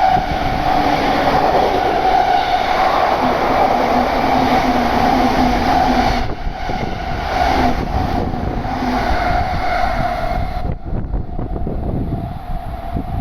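Electric train running through the station at speed: loud rolling noise with a steady tone over it. Near the end the sound thins out and eases off as the train passes.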